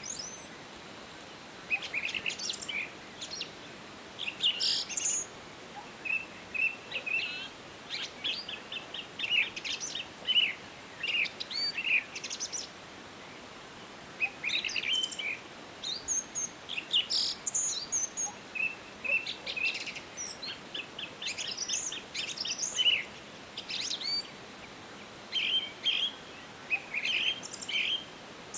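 Several songbirds singing, with overlapping short chirps and rapid trilled phrases repeating every second or so, over a faint steady hiss of forest ambience.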